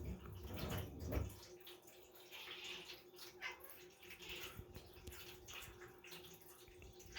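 Faint rain falling and dripping, an uneven patter of drops.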